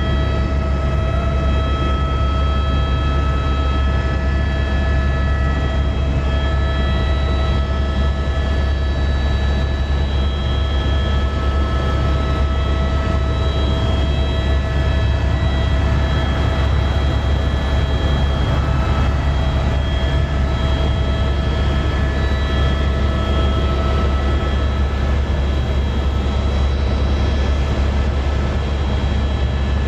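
Tour helicopter running steadily in flight: a constant loud low drone from the rotor and engine, with several steady whining tones above it.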